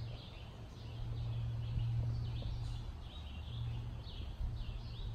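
Birds chirping in the woods, a run of short, high, falling chirps about twice a second, over a steady low hum.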